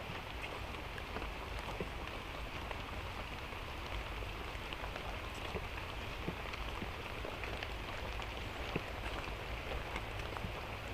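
Steady light rain falling, with single drops tapping now and then.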